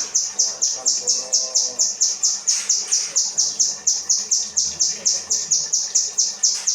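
Kinoi bird singing its 'rambatan' song: a fast, even string of high-pitched chirps, about four to five a second, repeated without a break.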